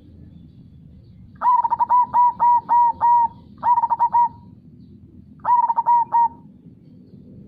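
Zebra dove (perkutut) cooing in three phrases of quick, clear, repeated notes: a long run of about six notes, then two shorter runs of three, over a steady low background rush.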